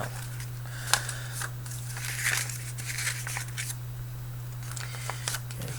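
Sheets of folded paper rustling and crinkling as a paper airplane is handled, with scattered light clicks and taps, over a steady low hum.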